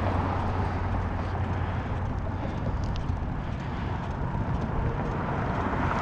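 Steady wind buffeting and road rumble from riding a bicycle, heard on a GoPro's microphone as a continuous low rumble and hiss, with a faint click about three seconds in.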